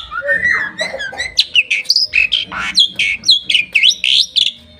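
Pet jalak (starling) singing a fast, loud run of varied sweeping whistles and chirps with some harsher notes; it stops shortly before the end.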